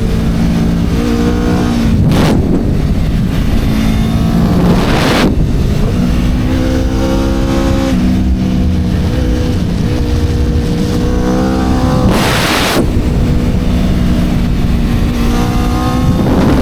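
Aprilia RSV4 superbike's V4 engine running hard on track, its pitch holding and then stepping up and down with the gear changes and throttle. Short gusts of wind rush over it four times.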